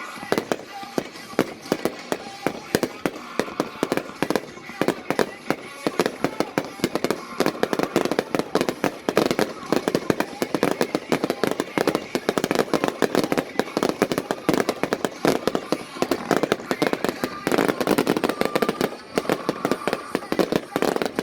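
Fireworks going off in a dense, continuous barrage of sharp bangs and crackling reports, many per second, heaviest in stretches after about seven seconds in.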